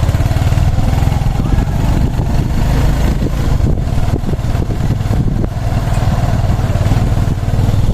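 Boda-boda motorcycle taxi engine running at a low, steady pace, heard from on the bike.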